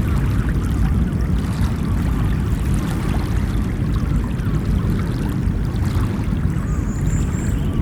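Ocean surf washing continuously, a steady rush of waves with no breaks. A brief faint high chirp comes near the end.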